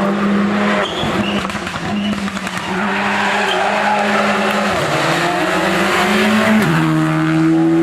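Hill-climb race car engine at high revs, accelerating hard. The engine note breaks and drops briefly about five times as it changes gear, then climbs again.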